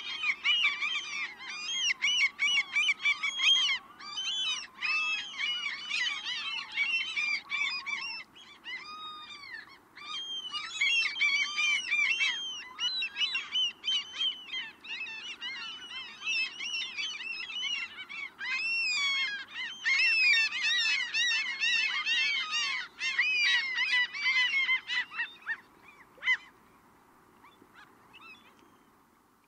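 A flock of gulls calling over one another, many short arched squawks overlapping densely over a steady low background noise, thinning out and fading away in the last few seconds.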